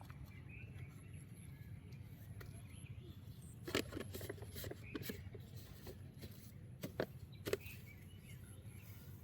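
Low outdoor background rumble with faint bird chirps, and a handful of sharp clicks or knocks scattered through the middle.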